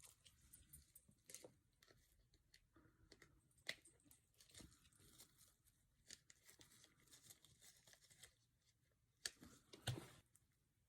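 Near silence with faint, scattered rustles and clicks, a few slightly louder ones near the end.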